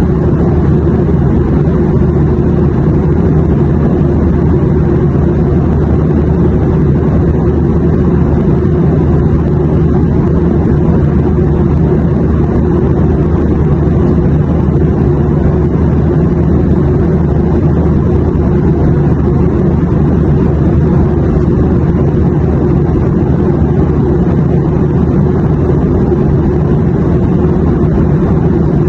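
Steady airplane cabin drone: a low, even rumble of engine and air noise with a few steady low hums under it, unchanging throughout.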